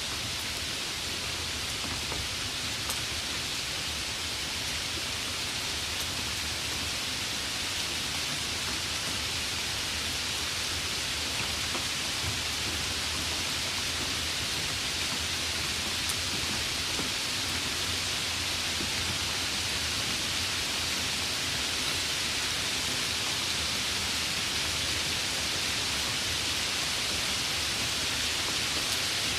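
Rain falling steadily as an even hiss, with a few faint ticks of single drops.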